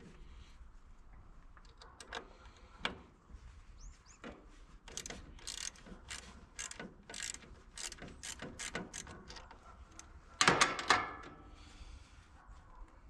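Ratchet wrench clicking in short strokes as it loosens the positive battery terminal bolt, about two to three clicks a second, with a louder clatter of metal about ten seconds in.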